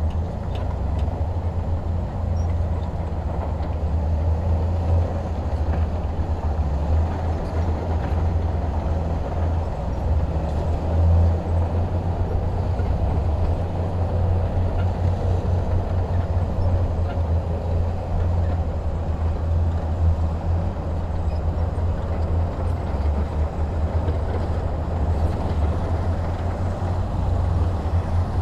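Heavy diesel engine running steadily under load with a deep, even rumble, from a bulldozer or dump truck at work in sand.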